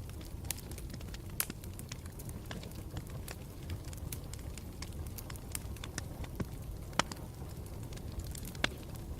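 Campfire burning with a steady low rumble and irregular sharp crackles and pops, the loudest about a second and a half in and twice near the end.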